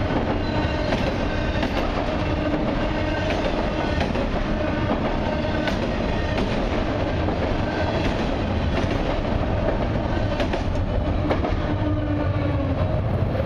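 Freight train of autorack cars rolling past close by: a steady rumble of steel wheels on rail, with repeated clickety-clack over the rail joints and short high-pitched squeals from the wheels.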